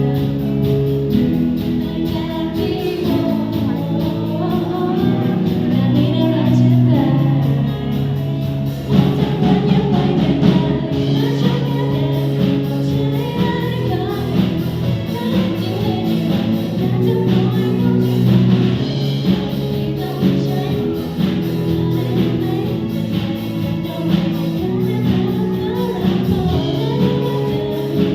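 A song from a stage musical: singing over instrumental backing music, with sustained held notes.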